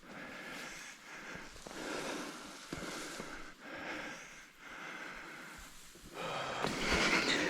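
A person breathing hard in a slow, even rhythm, roughly one breath a second, while walking, with a few soft knocks of footsteps. Near the end it gets louder.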